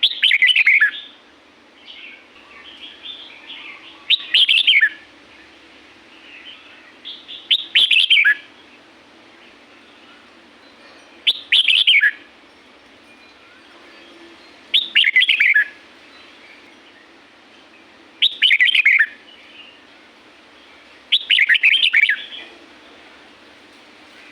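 Red-whiskered bulbul singing a short, loud phrase seven times, about every three and a half seconds, each phrase sweeping down in pitch, with softer chirps between the phrases.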